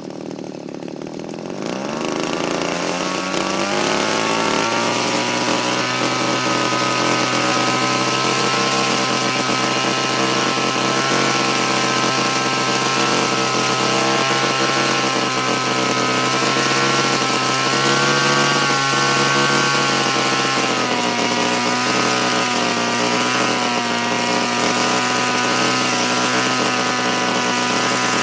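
Small petrol engine of a Raptor 50 RC helicopter converted to run on gasoline. It picks up speed and gets louder over the first few seconds, then runs steadily with slight rises and falls in speed.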